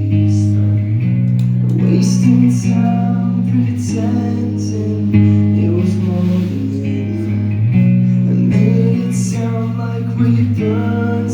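Rock band playing live and loud: guitar chords and bass notes held and changing every second or two, with cymbal crashes now and then.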